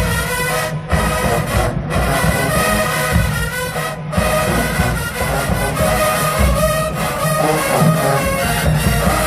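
HBCU marching band playing loudly: brass section holding full chords over heavy bass drum and percussion hits.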